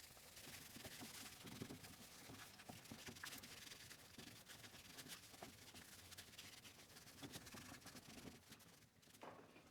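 Near silence with faint, scattered rubbing and small clicks, like light handling noise, dropping away almost completely near the end.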